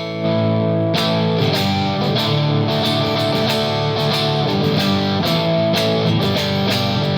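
Electric guitar on the middle single-coil pickup position, played through an EarthQuaker Devices Palisades overdrive pedal on its Gain A stage, with reverb: sustained overdriven chords, then busier strumming from about a second in.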